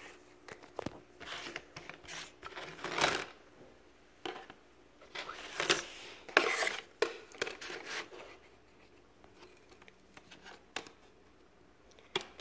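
Puzzle pieces being shuffled, slid and rubbed across a surface while someone searches through them, with scattered scrapes and a few light clicks; the loudest scrapes come about three seconds in and around the middle.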